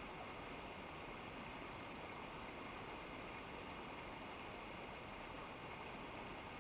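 Steady rushing of a mountain river's water, an even unbroken noise.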